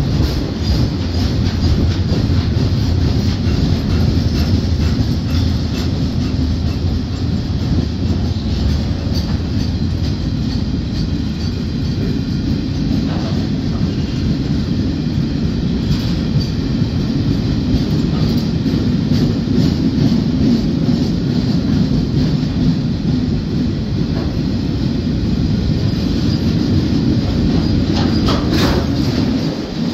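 Empty coil steel freight wagons rolling past at close range: a steady, loud rumble of steel wheels on rail with clickety-clack over the rail joints and occasional clanks, and a brief high wheel squeal near the end.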